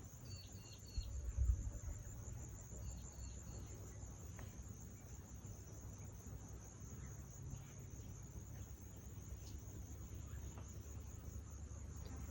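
Steady, high-pitched insect chorus with a fine rapid pulse, with two quick sets of short high chirps near the start and about three seconds in. A brief low rumble about a second and a half in is the loudest thing.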